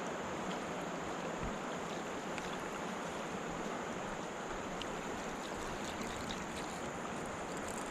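River water rushing steadily over rapids, an even hiss of moving water.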